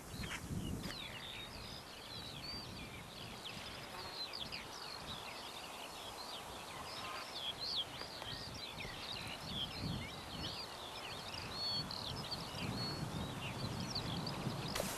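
Birds singing over open grassland: many short, high chirps and trills throughout, over a quiet outdoor background.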